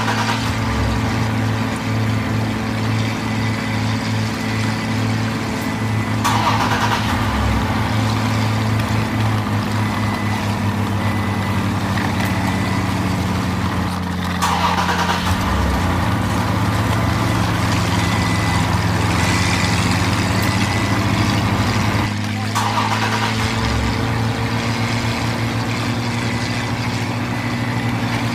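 A vehicle engine running steadily with a low, even hum, broken into sections about every eight seconds. Each new section opens with a brief rush of noise.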